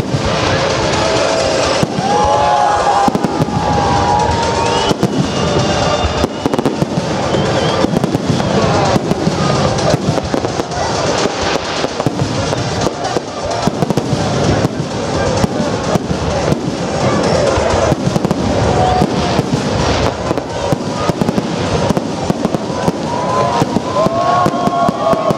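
Large aerial fireworks display: a continuous barrage of shells bursting, with bangs coming several times a second and no let-up.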